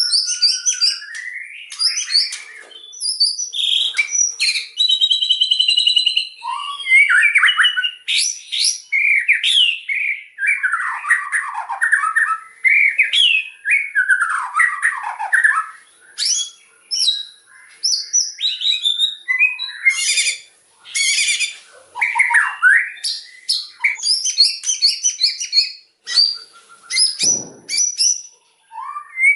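White-rumped shama (murai batu) singing loudly: a long run of varied phrases of clear whistles, sweeping notes and fast chattering trills, broken by short pauses.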